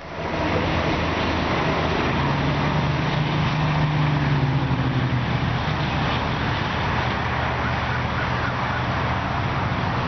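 Road traffic going by steadily, with one vehicle's engine hum swelling and passing between about two and five seconds in.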